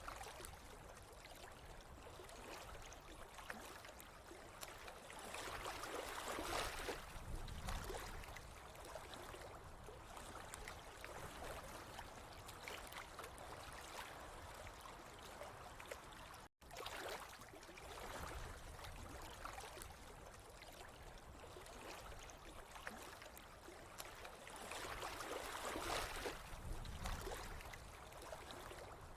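Flowing, trickling water, a steady rush that swells louder twice and cuts out for an instant about halfway through.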